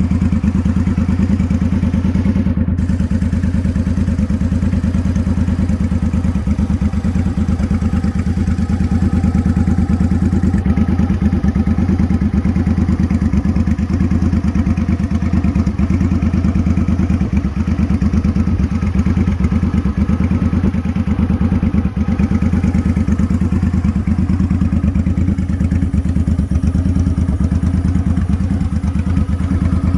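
Motorcycle engine idling steadily, an even low firing pulse with no change in revs.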